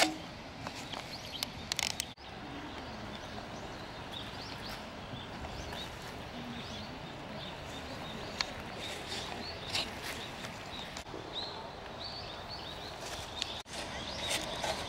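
Small birds chirping and twittering in short, repeated calls over a steady open-air background hiss, with the sound cutting out briefly twice.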